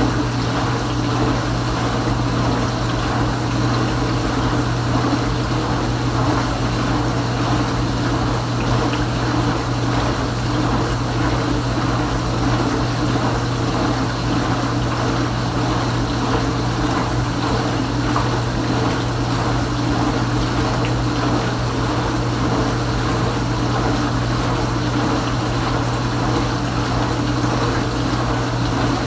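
Kenmore Ultra Wash 3 dishwasher running steadily mid-cycle: the circulation pump motor hums while water sprays and splashes inside the tub.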